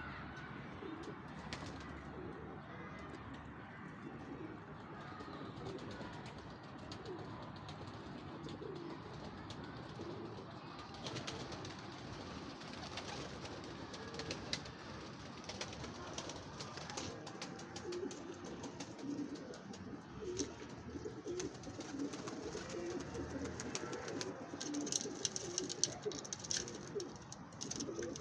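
Several kept doves cooing continuously, their calls overlapping. Scattered sharp clicks and scratches come in about eleven seconds in and grow thicker near the end.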